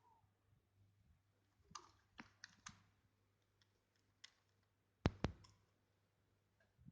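A few faint scattered clicks, the loudest a close pair about five seconds in.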